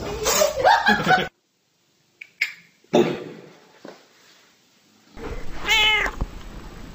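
A domestic black cat meows once, a short call about six seconds in, after a few brief sharp sounds.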